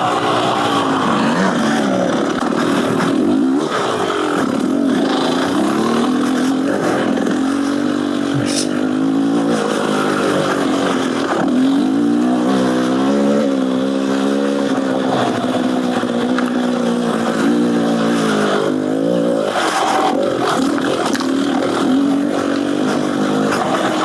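Beta Xtrainer 300 two-stroke dirt bike engine, breathing through an FMF Gnarly header and silencer, being ridden on the trail. Its pitch rises and falls over and over with the throttle.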